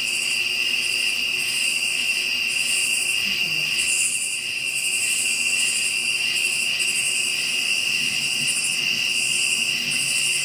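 Steady chorus of insects such as crickets. It trills continuously, with a higher-pitched layer that pulses on and off about once a second.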